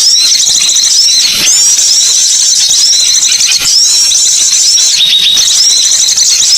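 Small birds chirping and chattering, a dense run of short high-pitched notes that overlap without a break.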